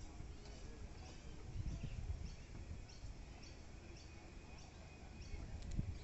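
A bird chirping repeatedly, short high chirps about twice a second, over an uneven low rumbling noise.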